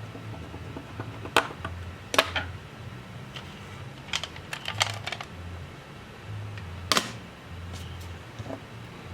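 Sharp clicks and taps of small hard tools and parts being handled and set down during laptop disassembly: single clicks, a quick run of several about four seconds in, and one more near seven seconds, over a steady low hum.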